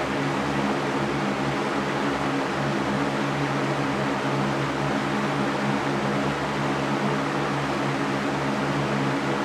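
Electric fan running steadily: an even rush of air with a low motor hum underneath, unchanging throughout.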